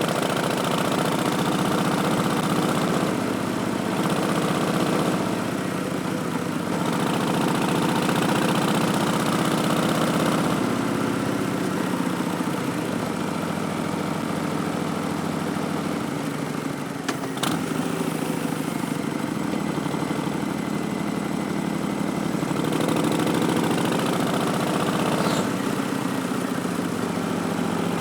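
Harley-Davidson Street Bob's Milwaukee-Eight 107 V-twin running through Vance & Hines Twin Slash slip-on mufflers while riding, its engine note stepping up and down several times with throttle and gear changes. A short sharp click about 17 seconds in.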